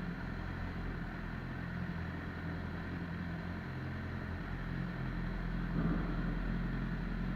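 Motorcycle engine running at a steady speed, a low even drone with a brief swell near six seconds in.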